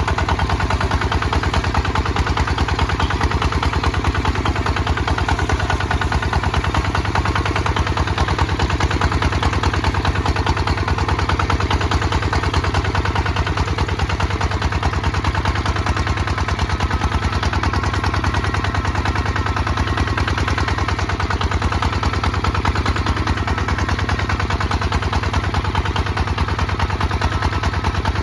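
Kubota ZT 155 DI single-cylinder diesel engine running steadily while plowing, a rapid, even chug of firing strokes.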